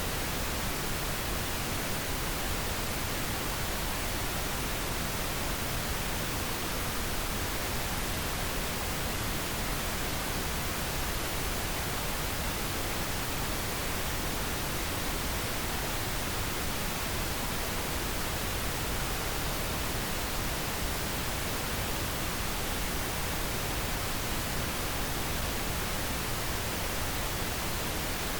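Steady pink noise: an even, unchanging hiss across the whole range of pitch, without breaks or events.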